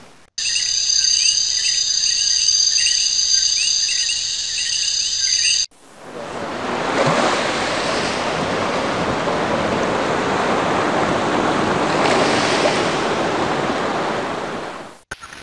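Two sound-effect clips cut one after the other. First, about five seconds of high chirping insects. Then ocean surf washing in, swelling twice before cutting off abruptly near the end.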